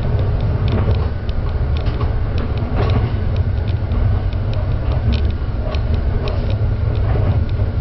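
Train running on the line, heard from on board: a steady low rumble with frequent short creaks and clicks from the carriage and wheels.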